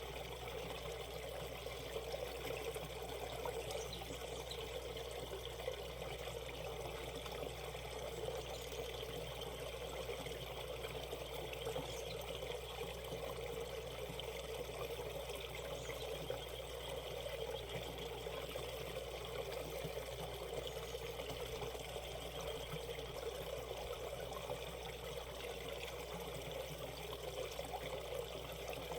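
Shallow valley stream running steadily over rocks, a continuous rush and trickle of water.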